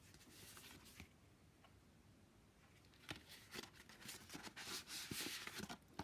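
Faint rustling and light clicks of paper and card being handled, starting about halfway through after a near-silent pause.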